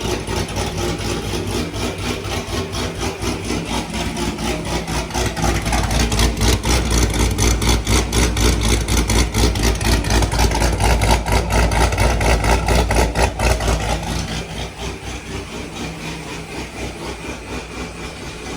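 ProCharger-supercharged C7 Corvette Z06 V8 running at idle with a steady rapid pulse. It gets louder for about eight seconds in the middle, then settles back to a quieter idle.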